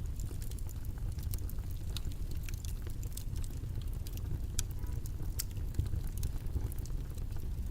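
Steady low background rumble with many small, irregular clicks and crackles on top.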